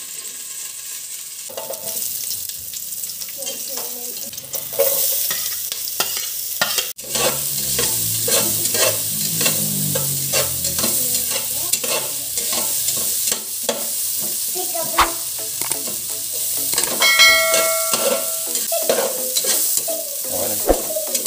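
Sliced ginger and shallots sizzling in hot oil in a pot, stirred with a spatula that clicks and scrapes against the pot's bottom, with a short ringing squeal about three quarters of the way through.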